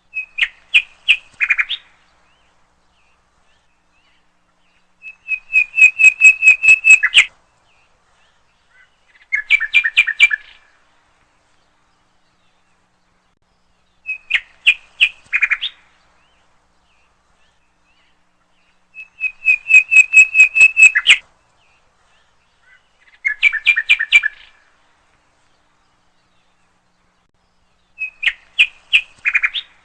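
A songbird's chirping song in short, rapid phrases of repeated notes, with silent gaps between. The same three phrases come round again in the same order about every 14 seconds, as in a looped recording.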